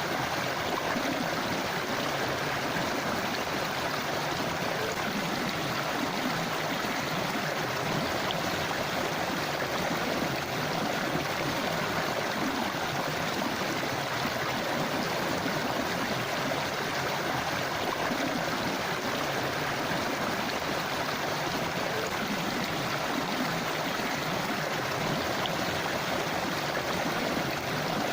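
A forest river or stream flowing over rocks: a steady rushing and gurgling of water.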